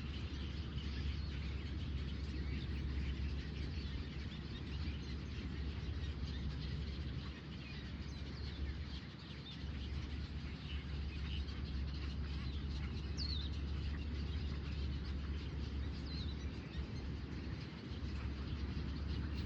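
Outdoor ambience: birds chirping faintly over a steady high hiss, with one short falling whistle about two-thirds of the way in, and a steady low rumble underneath.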